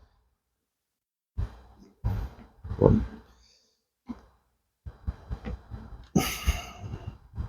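Short, irregular bursts of handling noise, scrapes and knocks, as the wooden frames and boxes of a beehive are worked back together, after about a second and a half of silence. The longest and brightest scrape comes near the end.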